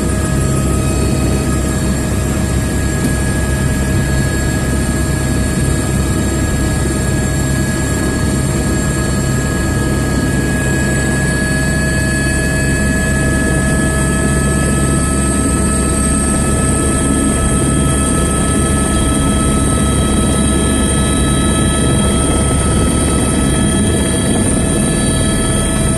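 Helicopter running at close range for takeoff: the steady drone of its turbine and rotor, with a high whine that rises a little in pitch about ten to fifteen seconds in.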